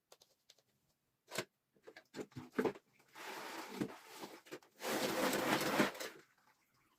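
Household cleaning sounds: a few light knocks and clicks, then two stretches of steady noise of a second or so each, the second louder.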